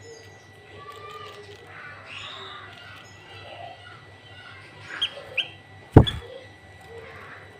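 Sooty-headed bulbuls and other songbirds chirping and calling in short scattered phrases, with two sharp high calls about five seconds in. A single loud knock comes about a second later.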